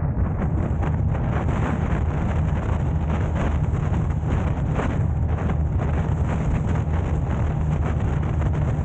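Steady low rumble of wind buffeting the camera microphone, mixed with road noise from a car being driven.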